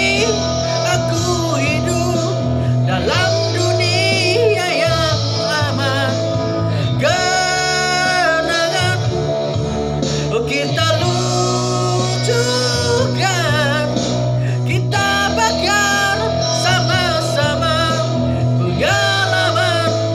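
A song: a voice singing with vibrato over a band backing of guitar and bass.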